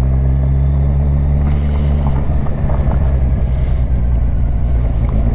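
Kawasaki Ninja 1000's inline-four engine running at steady low revs as the motorcycle is ridden over a rough, bumpy road. The engine note turns uneven about two seconds in.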